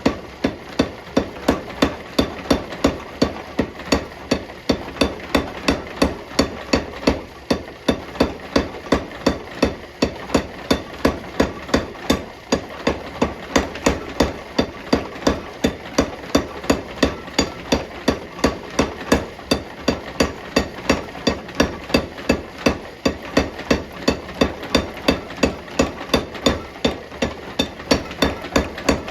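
Hammer blows on hot steel bar stock at the anvil while forging, a steady rhythm of about two strikes a second, each with a brief metallic ring, over a continuous rushing noise.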